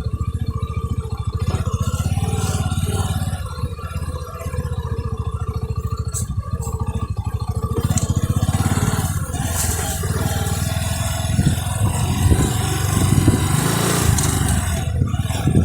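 Motorcycle engine running under way, a steady, even firing note, with rattling and scraping that grows louder in the second half.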